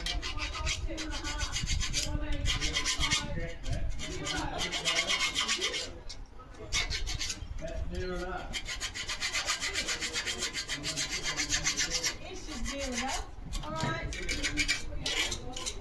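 Rat-tail file scraping back and forth over a metal chair leg, taking off rust and old paint in quick repeated strokes, with brief pauses about six and twelve seconds in.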